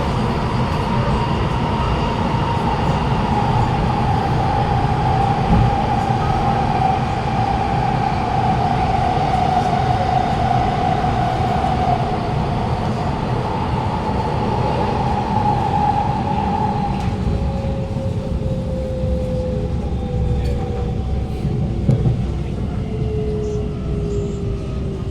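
Alstom Movia R151 metro train running, heard from inside the carriage: steady rumble of wheels on rail under a whine from the traction motors. The whine slowly falls in pitch, and lower falling tones take over about two-thirds of the way through as the train slows for the next station.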